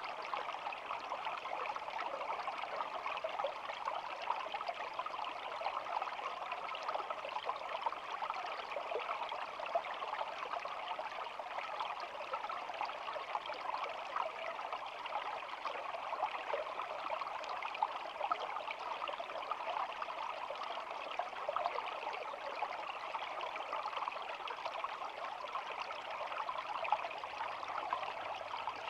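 A shallow stream running steadily, water babbling and trickling in a continuous even rush with a constant stream of small splashes.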